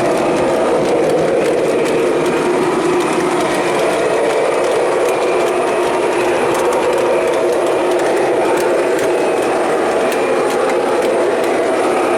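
O scale model train running on the layout track: a steady rolling and motor noise with many small clicks throughout.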